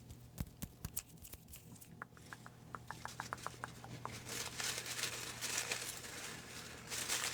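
Paper rustling and crinkling, as a folded name slip is handled and opened. A few sharp clicks come first, then a quick run of light ticks, then denser rustling.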